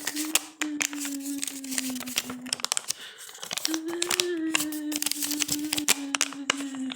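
A bottle being squeezed and twisted, crinkling and crackling with a long steady squeak. The squeak comes in two long stretches, dropping slightly in pitch, with a short break about three seconds in.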